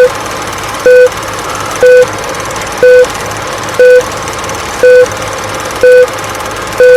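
Short electronic beep repeating about once a second over a steady hiss with a low hum.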